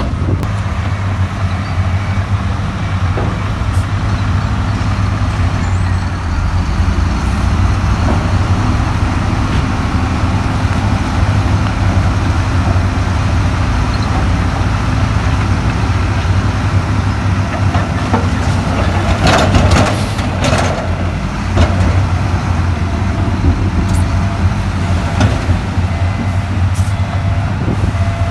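Heavy diesel earthmoving machinery running steadily under load, with a deep, even engine drone. A brief, loud burst of noise cuts in about two-thirds of the way through.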